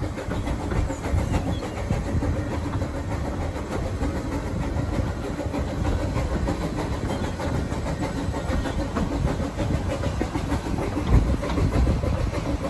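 Narrow-gauge steam train heard from a coach window while under way: a steady rumble with wheels clicking over the rail joints.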